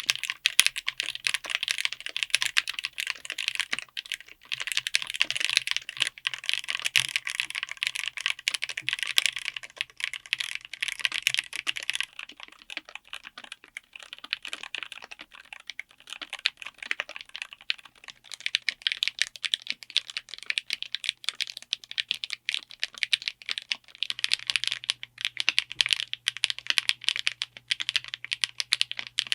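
Fast, continuous typing on a mechanical keyboard with linear switches: a dense stream of keystroke clacks. The sound changes about 12 s in to a quieter, duller set of keystrokes, then turns brighter again about 24 s in, as one switch gives way to the next.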